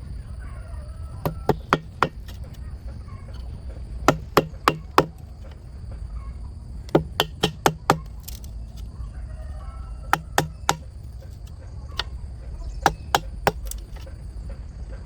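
Sharp blows of a hand tool on wood or bamboo, in quick bursts of three to five strikes, about three a second, with pauses of a second or two between bursts.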